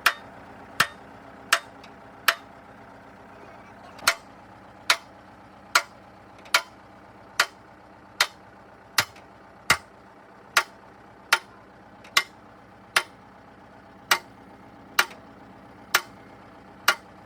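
A steady series of sharp knocks, roughly one every 0.8 seconds, about twenty in all, with a pause of nearly two seconds about two seconds in.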